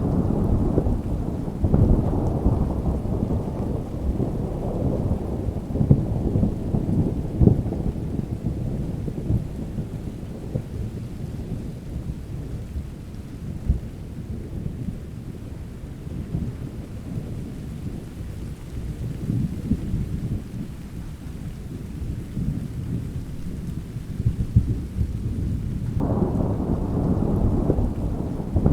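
Thunderstorm: rolling thunder with steady rain. The rumble eases off through the middle, and a fresh peal breaks in suddenly near the end.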